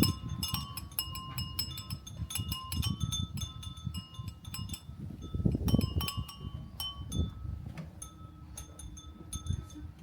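Many Japanese wind chimes (fūrin) tinkling in the wind: a dense, irregular run of clear ringing strikes that thins out over the last few seconds, over a low rumble of gusts.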